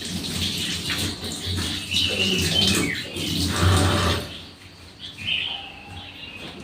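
Birds chirping a few times over a rustling, scuffling noise that lasts about four seconds and then stops.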